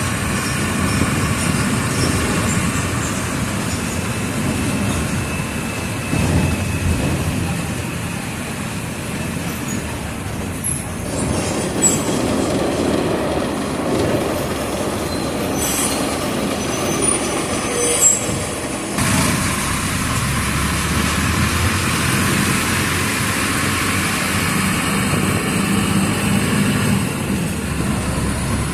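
Mercedes-Benz OF 1722M city bus with a Marcopolo Torino body running, its diesel engine giving a steady drone. Brief squeaks and rattles from the body come through a few times around the middle.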